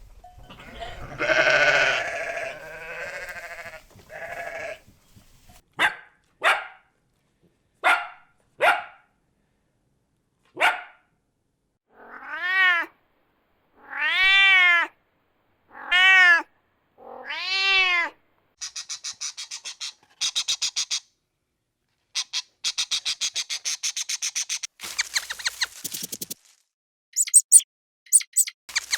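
A string of different animal calls: several drawn-out, meow-like calls that rise and fall in pitch in the middle, followed by fast, high-pitched chattering and a few sharp chirps near the end.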